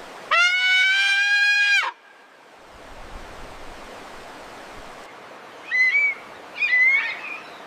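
An animal, most likely a bird, calling: first one long, level, harsh call lasting about a second and a half, then two short, higher calls that rise slightly near the end, over a steady background hiss.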